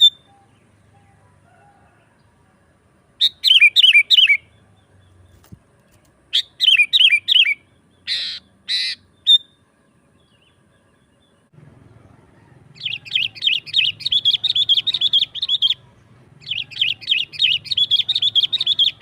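Sooty-headed bulbul singing: two short phrases of falling whistled notes, then two harsh rasping calls, then two long runs of rapid chattering notes.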